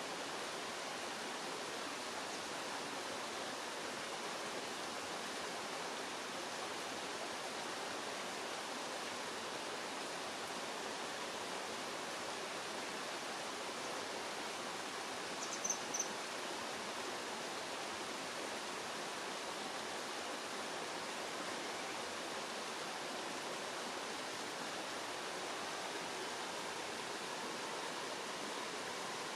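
Steady rush of running water, with a common kingfisher's short, high-pitched call of about three quick notes a little past halfway.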